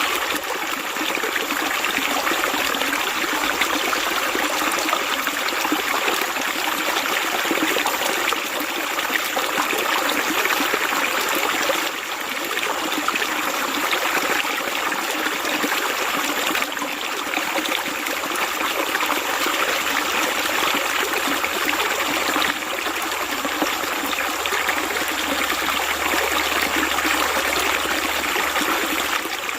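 Running water flowing steadily, an even rushing trickle with no pauses.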